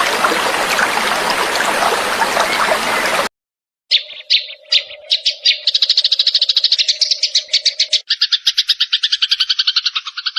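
Trickling water that cuts off abruptly about three seconds in. After a brief silence a songbird starts calling: a run of quick, sharp, high notes that speeds up into a fast, even chattering trill about halfway through, with a faint steady low hum under the first calls.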